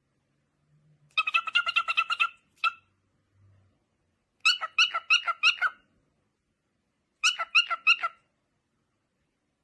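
Rapid, evenly repeated high-pitched animal chirps in three bursts of about a second each, with one lone chirp between the first two.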